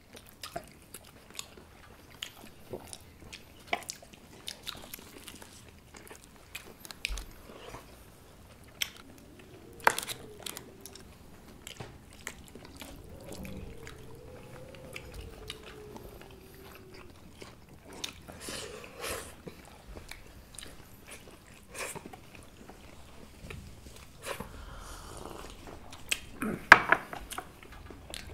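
Close-up chewing and biting of boiled sheep's head meat: scattered wet smacks, nibbles and small crunches, with a louder smack near the end.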